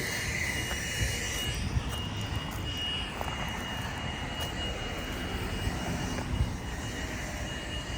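Steady low rumble of outdoor urban background noise, with a thin high steady tone that stops near the end.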